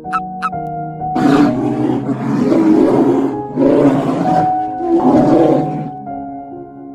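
A big cat gives three long, rough roaring calls, the first about a second in and the last ending near the close, over steady background music.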